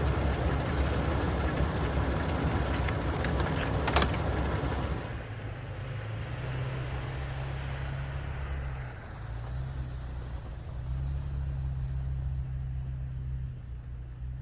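Vehicle running: a broad rushing noise with a few sharp clicks for about the first five seconds, then a quieter low engine hum that shifts in pitch.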